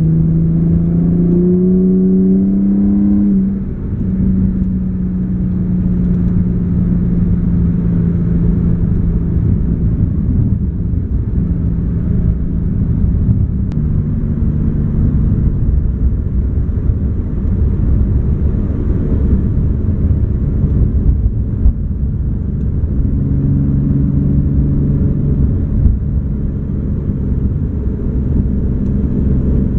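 Infiniti G37 sedan's 3.7-litre V6 with a Top Speed Y-back exhaust and Berk high-flow cats, heard from inside the cabin with the windows up. The revs climb over the first few seconds and drop about three and a half seconds in. The engine then drones steadily over road rumble, and the revs start climbing again at the very end.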